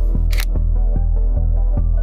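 Background music with a steady bass beat, with a single camera shutter click just under half a second in.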